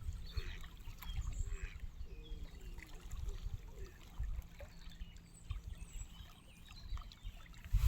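Gusting wind rumbling on the microphone, over faint lapping of lake water, with faint scattered chirps.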